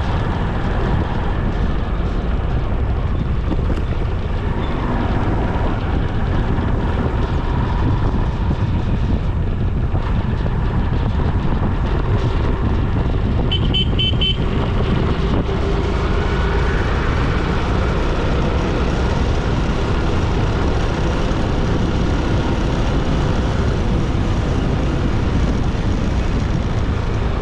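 Steady road noise of a moving motorcycle ride: a constant low rumble of engine, tyres and wind. About halfway through, a vehicle horn gives a brief high toot.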